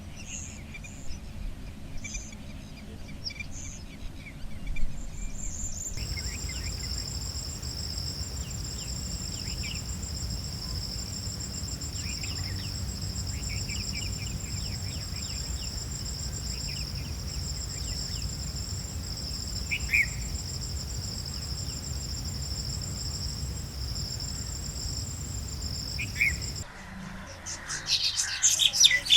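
Insects trilling in a steady, high, finely pulsing chorus over a low outdoor rumble, with scattered short bird chirps. The scene cuts at the start and near the end: sparse chirping for the first few seconds, and dense, sharp bird calls in the last two seconds.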